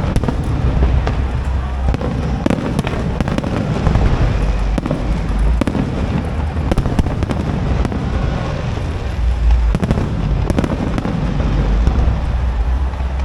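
Aerial fireworks display: continuous booming shell bursts with dense crackling.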